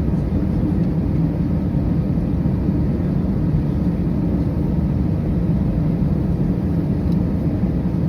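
Steady low rumble and hum inside the cabin of an Airbus A319 airliner, with no change in level.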